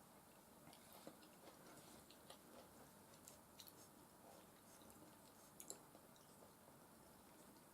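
Faint close-up chewing and wet mouth clicks of someone eating soft food, mashed potatoes and beef stew, with scattered small clicks a few times a second.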